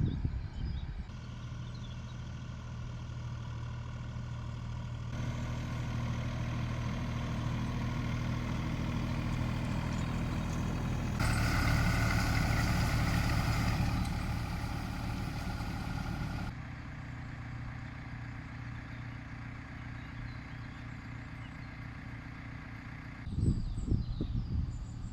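An engine running at a steady speed. Its note changes abruptly several times, and it is loudest in the middle stretch.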